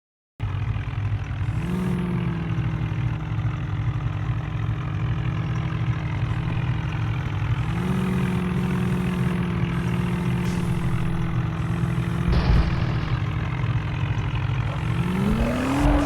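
Tractor engine running steadily. Its pitch steps up about a second and a half in and again about halfway through, then swells up and drops back near the end. There is a single knock about three quarters of the way through.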